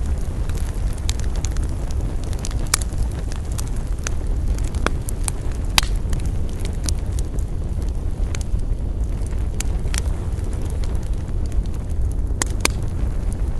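Wood campfire burning: irregular crackling with sharp pops, the loudest about 3 s in, about 6 s in and twice near the end, over a steady low rumble.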